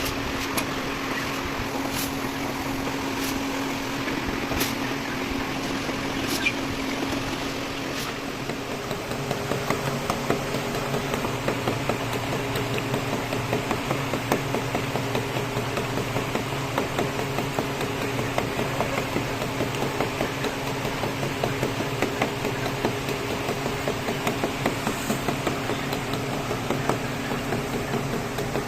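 Steady machine hum, with a second, lower hum joining about nine seconds in, and many small quick ticks scattered over it.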